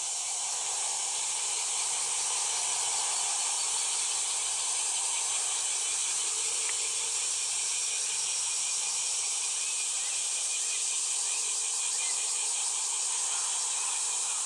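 Steady high-pitched hiss of an outdoor insect chorus, unbroken throughout.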